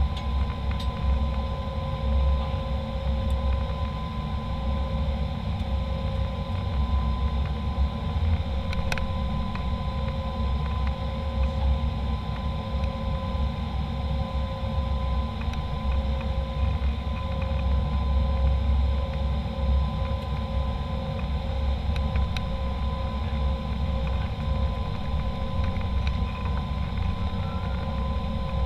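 Steady cabin noise inside an Embraer E190 airliner: a low rumble with two faint steady whining tones over it.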